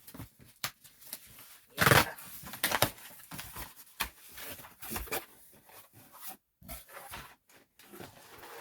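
A cardboard parcel box being opened by hand: packing tape ripped off and flaps and packing rustled, in irregular bursts. The loudest is a sharp rip about two seconds in.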